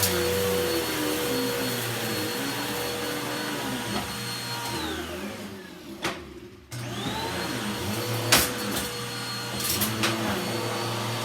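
Dirt Devil Breeze Cyclonic upright vacuum cleaner running with a steady motor whine; about halfway through it is switched off and winds down with a falling pitch, a click sounds, and it is switched back on and spins up with a rising whine before running steadily again.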